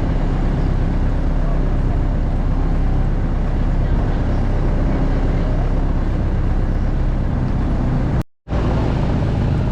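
Motorboat engine running steadily, with a brief dropout a little after eight seconds in.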